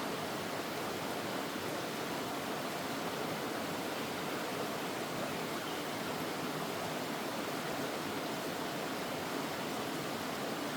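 Mountain stream water flowing steadily, an even, unbroken noise.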